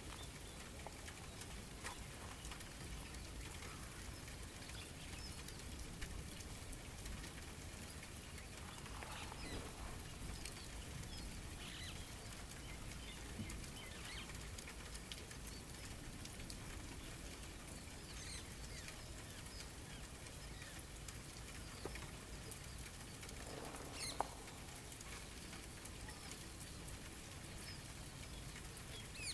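Faint outdoor nature ambience: a steady soft hiss with scattered small clicks and patter, and a few brief bird chirps, the clearest about three-quarters of the way through.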